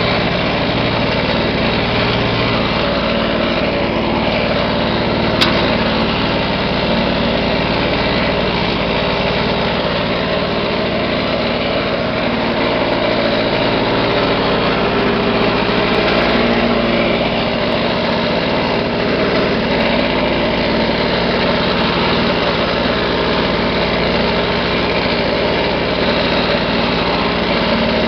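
1980s Lawn-Boy mower's single-cylinder two-stroke engine running steadily, freshly cold-started after sitting in storage. One brief sharp click comes about five seconds in.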